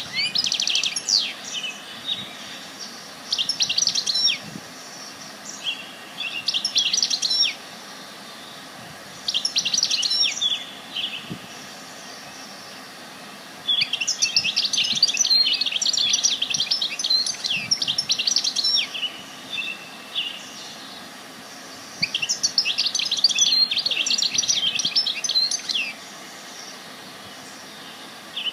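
Songbird singing in bursts of rapid high chirps and trills, the phrases ranging from about a second to several seconds long with short pauses between them, over a steady background hiss.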